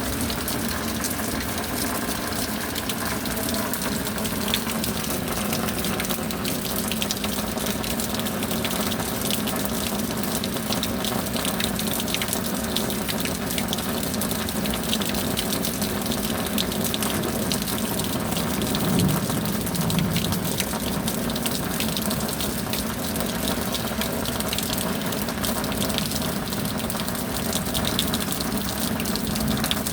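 Steady rain with water running and splashing, a dense even hiss flecked with drop sounds, swelling briefly about two-thirds of the way through.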